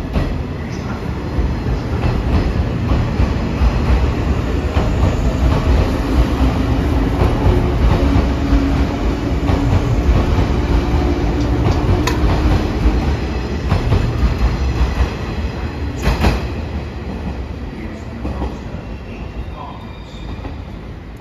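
A train running past on the rails: a loud, dense rumble that builds to a peak mid-way and then fades toward the end, with two sharp clacks in the second half.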